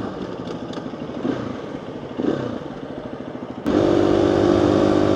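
Dual-sport motorcycle engine running with wind noise, heard through a microphone inside the rider's helmet. About three and a half seconds in, the sound jumps abruptly louder to a steady engine drone.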